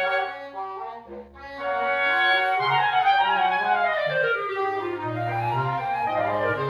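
Woodwind quintet playing in chords with a clarinet line on top and a low bass part underneath. It dips briefly about a second in, then the upper line plays a quick run of falling notes over held low notes.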